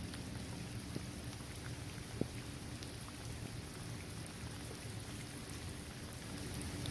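Steady rain falling on a paved court, trees and grass, with scattered single drops ticking and one sharper drop hit about two seconds in.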